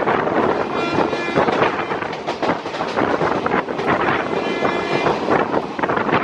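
Wind rushing over the microphone and the rumble and rattle of a moving passenger train's wheels on the rails, heard from an open door or window. The last coach of a train passing on the next track goes by at the start. Faint high tones come briefly about a second in and again after four seconds.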